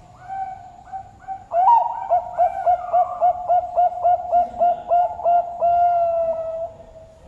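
A zebra dove (perkutut) sings its cooing song. A few soft opening notes are followed by a loud rising coo, then a quick run of about a dozen short coos at roughly four a second, and it ends on one long held coo.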